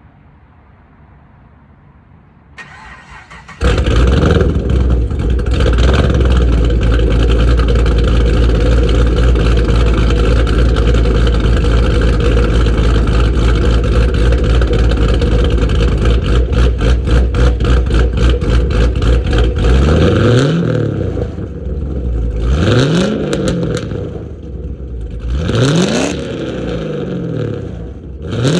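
Chevrolet Camaro engine started: a brief crank about three seconds in, then it catches and runs loud and steady. From about twenty seconds in it is revved four times, each blip rising and falling in pitch.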